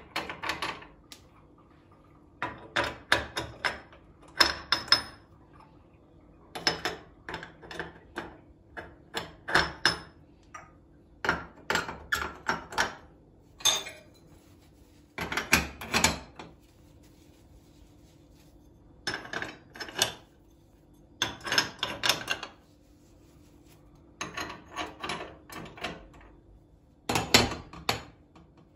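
Kitchen items being handled and set down: bursts of sharp clatters and knocks every second or two, over a faint steady low hum.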